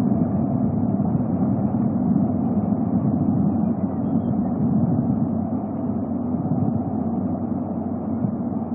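Steady low rumbling noise with no distinct calls or knocks.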